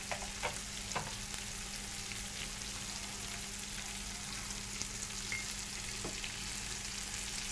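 Onions and tomatoes sizzling steadily in hot ghee in a large pot, with a few light clicks in the first second.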